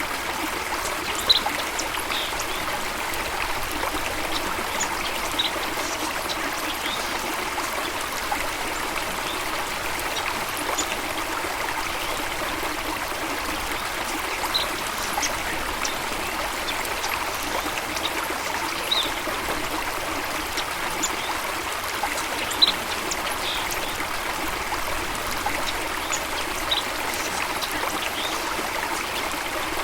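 Running water of a stream, a steady trickling rush, with short high-pitched blips scattered every second or two.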